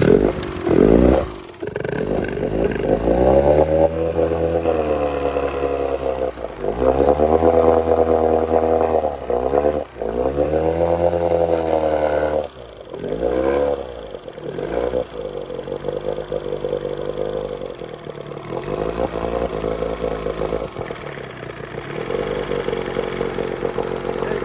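Early-1970s Evinrude 18 hp two-stroke outboard motor starting up and running, revved up and down several times with brief dips between. It settles into a steadier run over the last third. Its freshly cleaned carburettor has not yet been adjusted.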